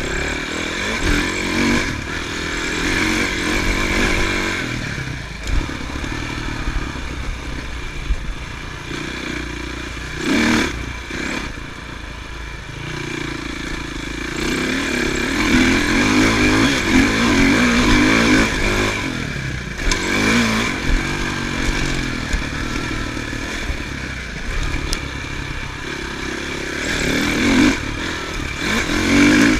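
Motocross bike engine revving and easing off again and again as it is ridden, its pitch rising and falling every few seconds, with some clatter and a sharp knock about ten seconds in.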